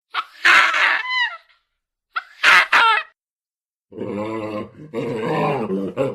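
Primate vocalizations: two loud, high calls that fall in pitch, followed about four seconds in by low, rough, drawn-out groaning calls.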